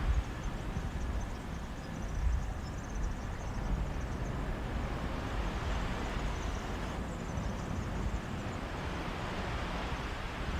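Sea waves washing on a beach in a steady hiss, with wind gusting and rumbling on the microphone.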